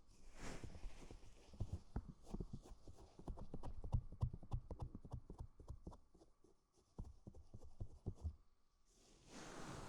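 Quick, irregular soft taps and pats on a binaural microphone's ears, several a second, thinning out and stopping after about eight seconds. Near the end the rustle of a knit cardigan rubbing over the microphone swells in.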